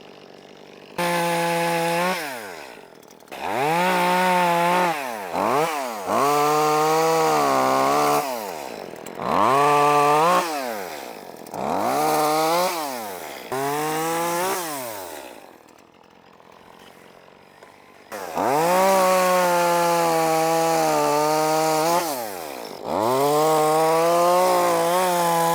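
Two-stroke chainsaw cutting wood in repeated full-throttle bursts, each lasting one to four seconds and falling back to idle between cuts, with a longer cut near the end.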